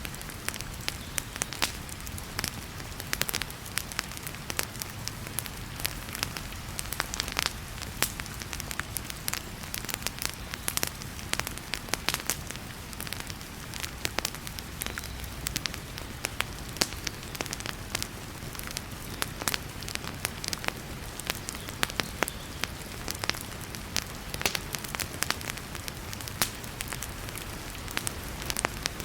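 Wood fire crackling in a fireplace, with frequent irregular sharp pops and snaps over a steady hiss of heavy rain.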